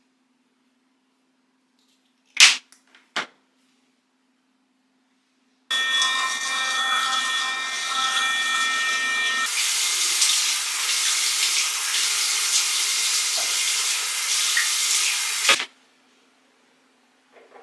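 Water running from a tap into a sink for about ten seconds, after a couple of short clicks. The flow turns into a brighter, fuller hiss partway through and then shuts off abruptly.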